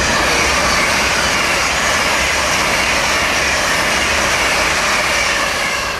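A train running through the station: a loud, steady rushing noise with a high whine that slowly falls in pitch.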